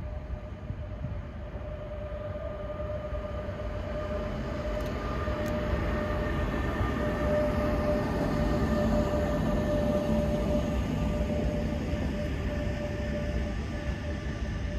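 Train passing on the line, a steady rumble with a steady whine over it, growing louder to about eight to ten seconds in and then easing slightly.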